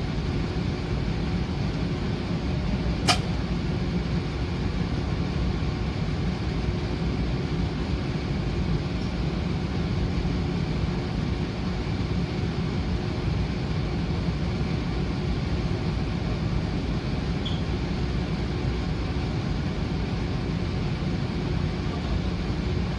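Steady low rumble of the WEST EXPRESS Ginga train running, heard inside the carriage, with one sharp click about three seconds in.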